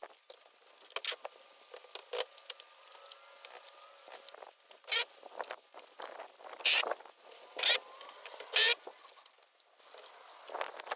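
Sped-up gutter installation work noise: a run of sharp clicks and knocks with several short, loud rasping bursts about a second apart near the middle.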